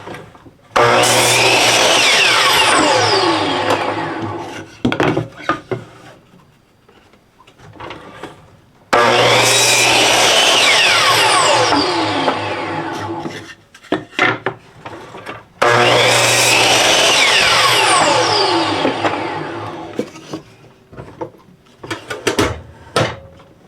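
Miter saw started and cut three times, each cut through a cedar fence picket at an angle, about seven seconds apart. After each cut the motor and blade wind down with a falling whine.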